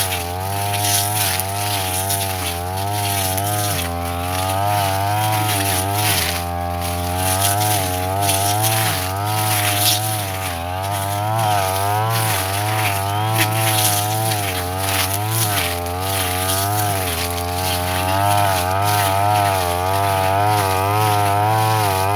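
Petrol brush cutter engine running at high revs while cutting grass, its pitch wavering up and down continuously as the blade bites into the growth. About six seconds in the engine briefly bogs down, then picks back up.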